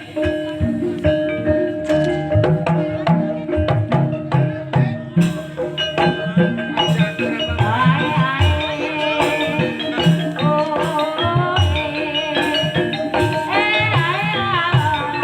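Javanese gamelan music for an ebeg horse dance, campursari style: hand-drum strokes over ringing, held metallophone tones, with a voice singing a wavering melody from about halfway through.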